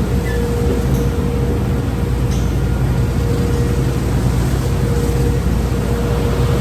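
Automatic car wash tunnel equipment running: a steady low rumble with a constant hum held above it.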